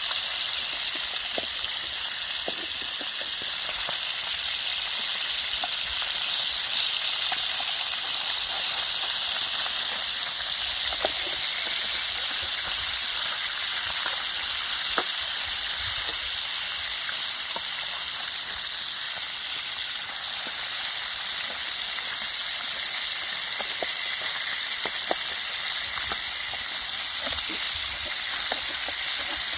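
Silver carp frying in a pan over a campfire: a steady sizzle with scattered small crackles and pops.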